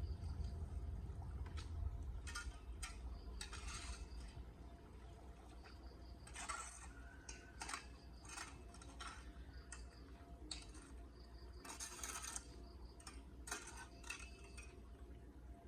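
Water sloshing over a clogged drain, with irregular short scrapes and clatters and a low rumble underneath.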